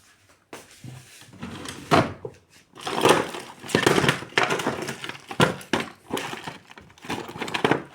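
Rummaging: objects being handled and shifted about, with rustling, irregular knocks and several louder clunks.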